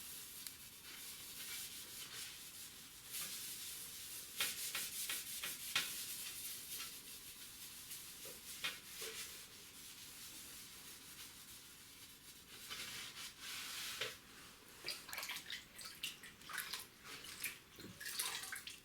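Damp kitchen sponge coated in wood ash rubbing over sooty fireplace-door glass in light, irregular scrubbing strokes, a soft gritty hiss. The strokes come in clusters, with a quieter stretch in the middle.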